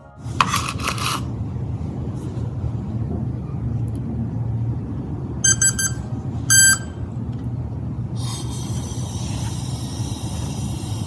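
Small piston engine of a homemade motorjet running steadily at low speed, with two short electronic beeps a little past halfway through.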